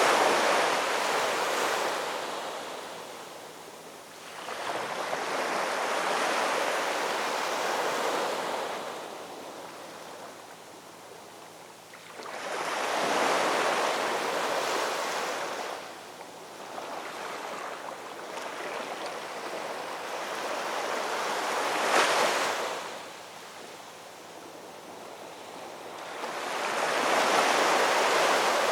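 Ocean waves breaking and washing in, each swelling to a rush of surf and then ebbing, about every six to eight seconds. One wave, about three quarters of the way through, breaks with a sharper crash.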